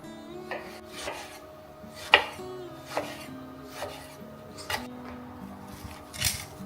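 Kitchen knocks and clinks, about one a second and unevenly spaced, with a brief scrape near the end, over soft background music.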